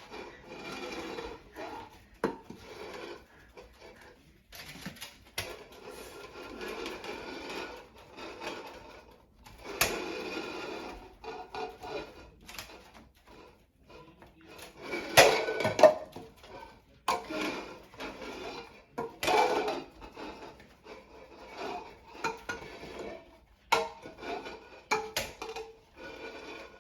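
Repeated hard puffs of breath blowing, mixed with light red plastic cups knocking and clattering as they are blown over and off a plastic plate. The loudest puffs and clatters come about halfway through.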